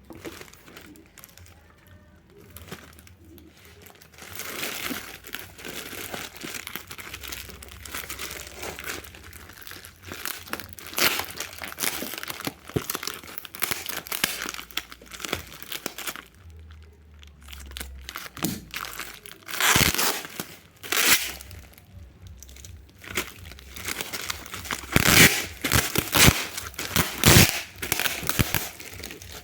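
Packaging being crinkled and torn open by hand, in irregular rustles. The loudest tearing comes about twenty seconds in and again near the end.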